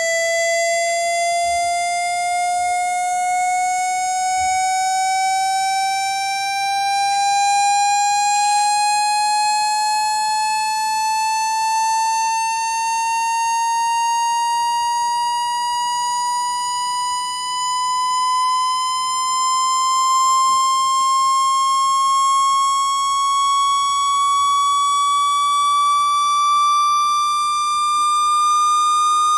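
Electronic water-ejection tone for clearing water from a phone speaker: a single buzzy tone with overtones, slowly and evenly rising in pitch, at roughly one octave over the span.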